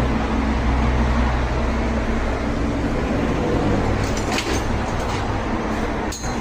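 Engine running steadily with a low hum, with a few light clicks about four seconds in and again near the end.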